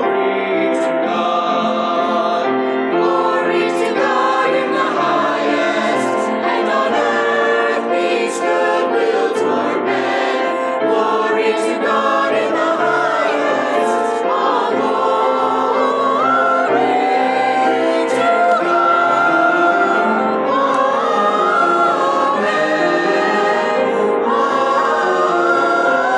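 Church choir singing a Christmas cantata piece with instrumental accompaniment.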